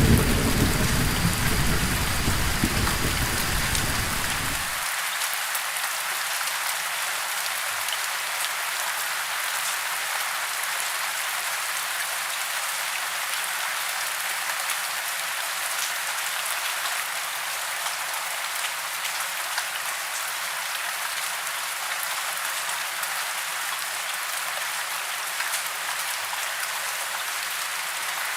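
Steady heavy rain, an even hiss. The low rumble of thunder carries over the first few seconds and cuts off suddenly about five seconds in.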